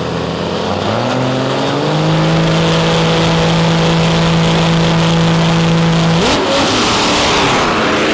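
Drag-racing engine run at full throttle down the strip. The pitch climbs about a second in and holds steady and loud for several seconds, then sweeps and fades near the end as the vehicle finishes its pass.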